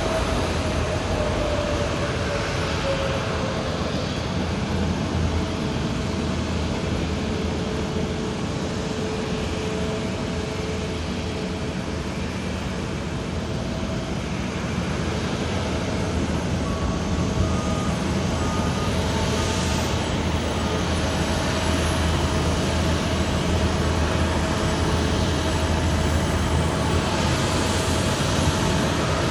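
Jet airliner engines at an airport: a steady rumble and hiss, with a whine that falls in pitch over the first few seconds.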